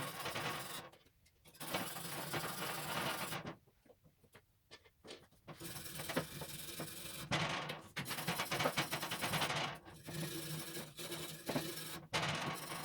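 Rapid scraping strokes of brushing or sanding on the stove's rusty metal surface, in spells broken by two short pauses.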